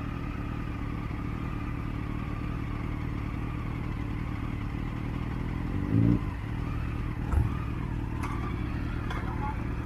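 Motorcycle engines idling steadily at a standstill. About six seconds in there is a brief louder burst, and a short thump follows about a second later.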